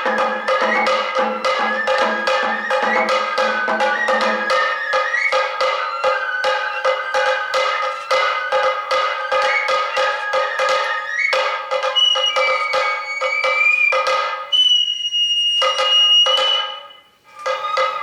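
Kagura hayashi music: a Japanese bamboo flute playing a melody over steady drum strokes, about three a second. Near the end the flute holds long high notes, and the music briefly drops out just before the drumming resumes.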